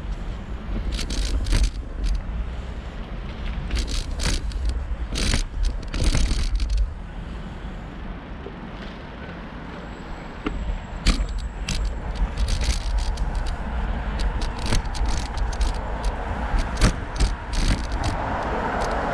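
Riding a bicycle: wind buffets the microphone in a low, uneven rumble, and the bike gives off scattered clicks and rattles over the road surface. A rushing noise builds near the end.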